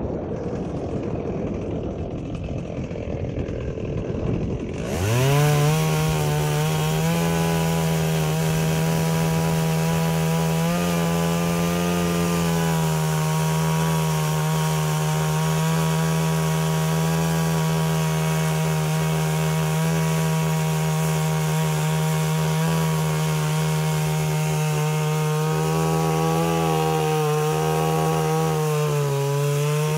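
Stihl 038 Magnum two-stroke chainsaw: a low rumble, then about five seconds in the saw is throttled up and held at high speed, its pitch wavering slightly as it cuts through wood.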